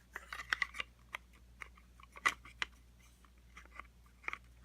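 Light plastic clicks and taps as a robot vacuum's drive-wheel gearbox is handled and fitted back into its plastic housing. The clicks come irregularly, with the sharpest one about two seconds in.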